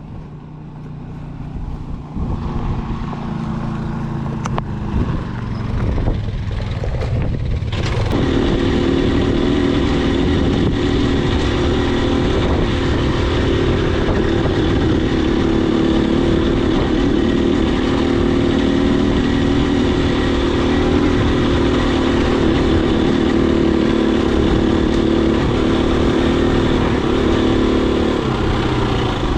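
Husqvarna FE250 dirt bike's single-cylinder four-stroke engine running while being ridden. It is quieter at first, picks up sharply about a quarter of the way in, holds a loud steady pitch, and eases slightly near the end.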